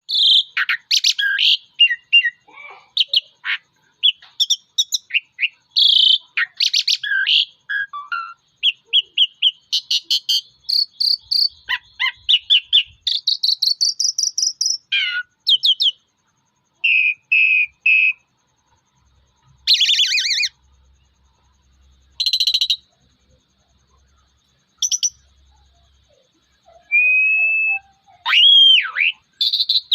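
Male Javan pied starling (jalak uren) singing a loud, varied challenge song: a dense run of whistles, chatter and rapid buzzy notes for about half the time, then shorter phrases with pauses, including a whistle that swoops up and down near the end.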